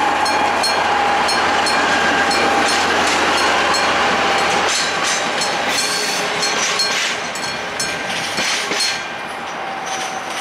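ŽSR class 850 diesel railcar and its trailer car passing over a level crossing, the engine running and the wheels clacking over the rail joints, while the crossing's classic warning bell rings about two strokes a second. The sound dies down in the second half as the train clears the crossing.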